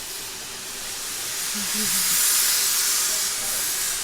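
Steam hissing from a 15-inch-gauge steam locomotive, a loud high hiss that swells to its loudest about two seconds in.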